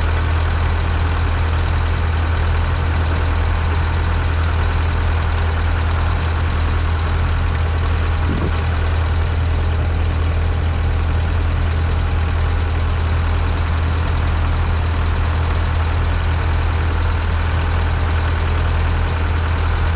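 Zetor 7045 tractor's four-cylinder diesel engine idling steadily, freshly cold-started in frost after weeks standing.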